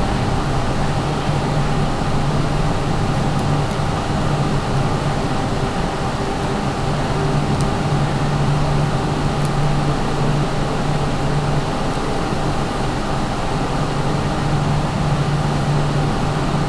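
Steady mechanical hum with a constant rushing noise, as from a running fan or air-conditioning unit, unchanging throughout.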